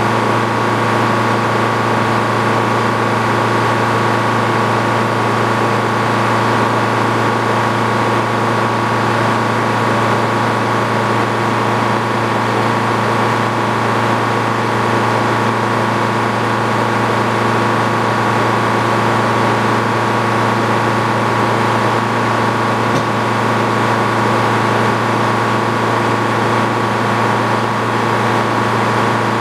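Engine powering the sawmill, running steadily at constant speed with an even, unchanging drone.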